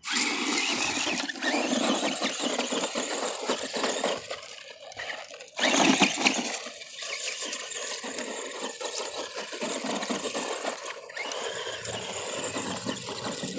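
Electric motor and gearbox of an ARRMA Granite Voltage RC monster truck (MEGA 20T 540 brushed motor) whining as the truck is driven hard at full throttle. The sound briefly cuts out twice.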